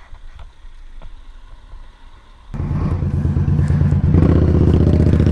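A few faint clicks, then about two and a half seconds in a motorcycle engine starts abruptly and runs loud and steady, growing a little louder near the end.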